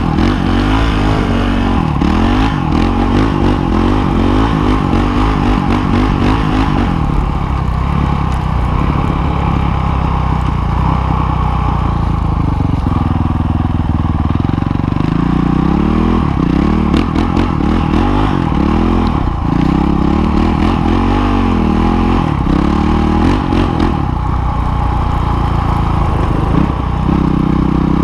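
Dirt bike engine running while riding, its revs rising and falling again and again as the throttle is worked, with a steadier stretch from about seven to thirteen seconds in.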